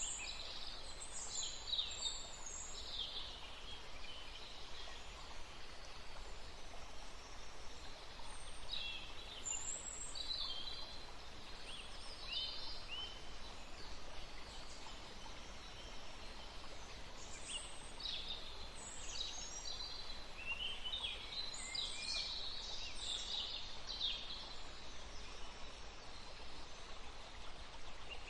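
Birds chirping and calling in bursts of short, high notes, coming and going in clusters, over a steady background hiss of forest ambience.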